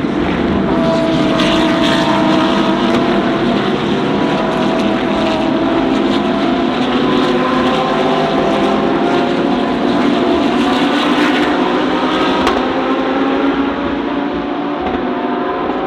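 A field of GT3 race cars running at racing speed, many engines sounding together, just after a safety-car restart. The sound eases slightly near the end.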